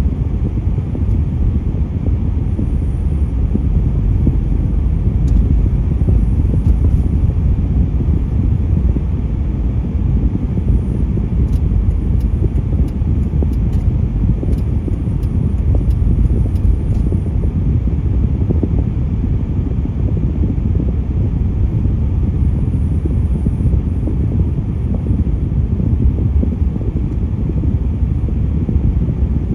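Steady low rumble of road traffic, with a few faint clicks midway.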